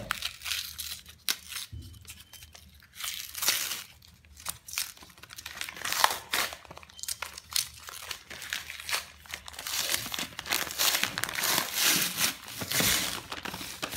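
Paper wrapping being torn and crumpled by hand off a 36-shot firework cake: irregular crinkling and ripping, busier in the second half.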